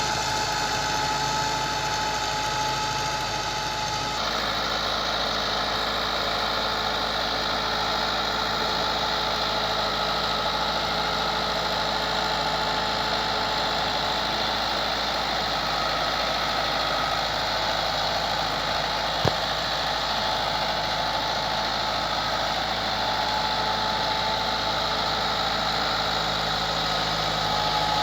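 Massey Ferguson 385 tractor's diesel engine running steadily. Its tone shifts slightly about four seconds in, and there is a single sharp click a little past the middle.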